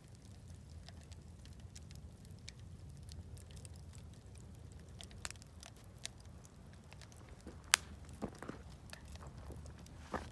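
Wood campfire crackling, with scattered sharp pops and one loud snap a little past the middle, over a steady low rumble.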